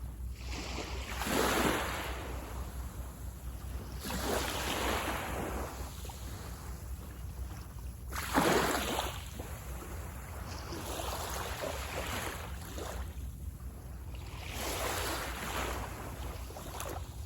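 Sea waves breaking and washing up on a beach, five in a row, one every three to four seconds, with the loudest break near the middle.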